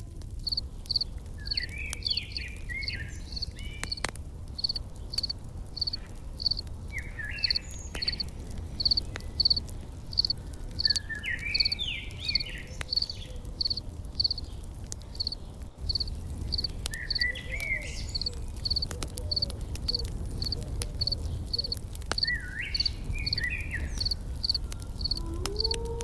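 Nature ambience: an insect chirps steadily at about one and a half chirps a second, while a bird sings short phrases about every five seconds, over faint crackles and a low rumble.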